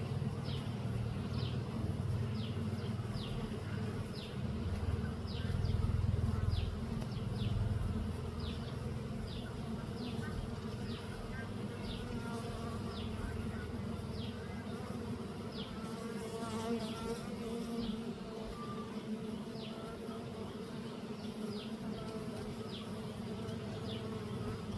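Many honeybees buzzing together on the comb: a steady hum of beating wings that swells briefly a few seconds in.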